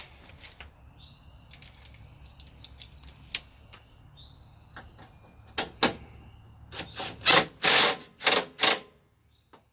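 Ratchet and socket on a long extension clicking on 10mm bolts: scattered light clicks, then several louder short bursts of clicking in the second half, with faint bird chirps behind.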